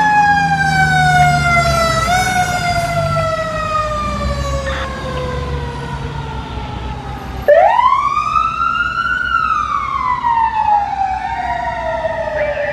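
Fire truck siren: a long tone sliding slowly down in pitch over a low engine rumble, then about two-thirds of the way in a louder siren wail starts suddenly, rising in pitch and then falling.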